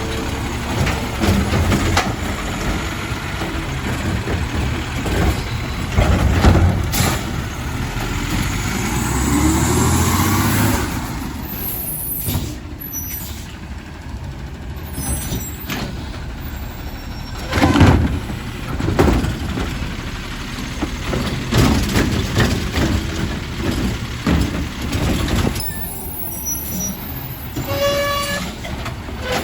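Garbage truck's diesel engine running with a low rumble, broken by loud clanks about 7 and 18 seconds in and a hiss of air brakes about 12 seconds in.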